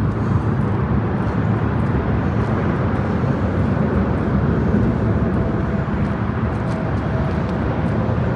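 Steady rumble and hiss of nearby road traffic, with a faint steady tone rising out of it for a couple of seconds around the middle.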